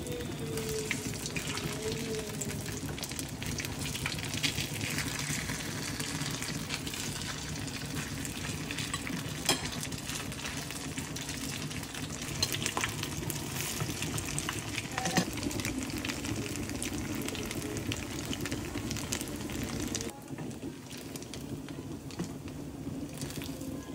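Salt cod fritters (bacalaítos) sizzling and crackling in hot oil in a small frying pan, with a few sharp clicks. The sizzle gets quieter near the end.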